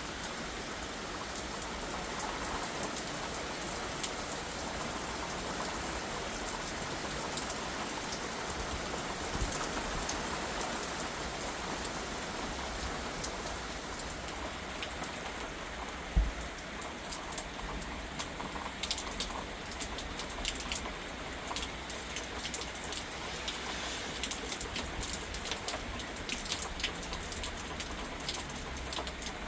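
Steady rain from a thunderstorm falling and hitting surfaces, with many sharp drip ticks through the second half. A single low thump about halfway through.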